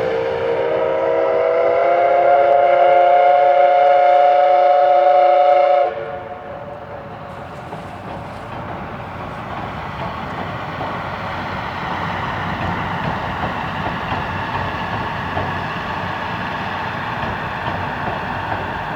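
Steam locomotive C11 207's whistle giving a long blast that rises slightly in pitch and cuts off sharply about six seconds in. After it, the steady running noise of the train.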